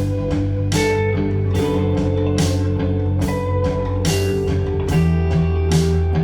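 Instrumental pop-rock music: Fazley FTL200NT electric guitars over a bass guitar and a sampled pop-rock drum kit, with a drum hit about every 0.8 seconds.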